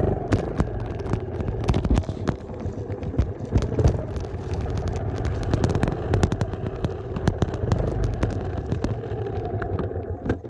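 Dirt bike engine running while riding, with many sharp, irregular knocks and pops over the steady engine rumble.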